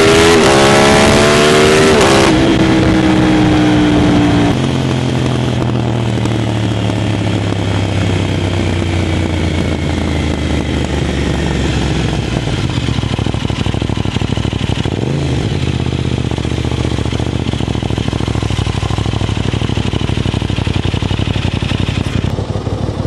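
Aprilia RS660's 659 cc parallel-twin engine through an Arrow full exhaust with the dB killer fitted, its revs climbing and then dropping sharply about two seconds in and again a couple of seconds later. It then runs steadily at lower revs, with a short blip of throttle about two-thirds of the way through.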